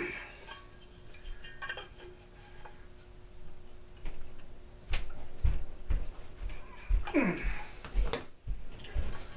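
Metal parts and tools clinking and knocking as small-engine parts are handled during disassembly. The sounds come thicker and louder from about five seconds in, with a short scrape falling in pitch near seven seconds.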